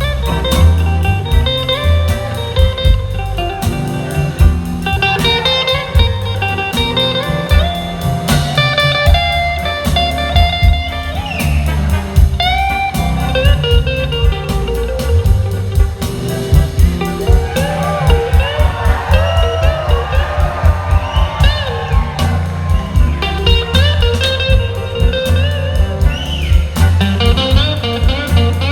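Live blues-rock band playing an instrumental passage: an electric guitar solo with notes that glide and bend in pitch, over a steady bass and drum groove.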